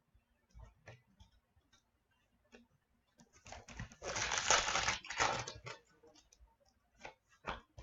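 Trading cards and their packaging being handled: a few light clicks and taps, then a burst of rustling lasting about two seconds, a little past halfway through, then more light clicks near the end.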